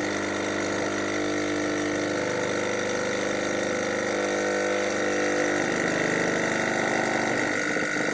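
Old 12-volt air-ride compressor running continuously under load, slowly building pressure. It makes a steady mechanical hum whose tone shifts about five and a half seconds in and again near the end.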